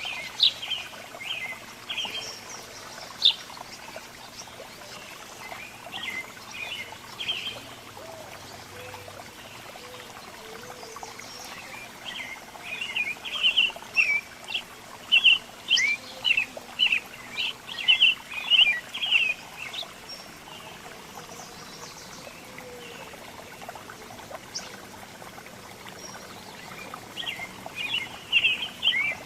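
Small songbirds chirping and calling in short, quick notes, scattered at first, then a dense run of calls about halfway through and another near the end, over a steady background hiss.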